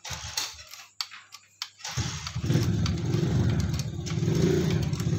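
A few light metal clicks from hand tools, then about two seconds in a motorcycle engine starts and runs with a steady rumble.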